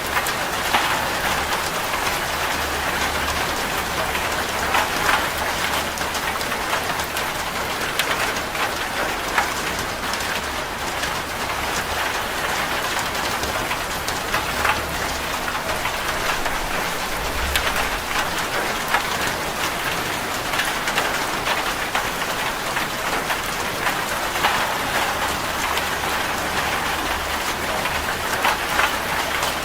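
Steady rain drumming on a corrugated zinc roof, a dense even patter with scattered sharper drop impacts.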